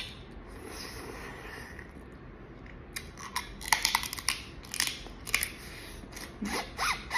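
Boiled crawfish being cracked, peeled and eaten: a quiet stretch, then about three seconds in a quick run of sharp shell cracks and snaps mixed with chewing.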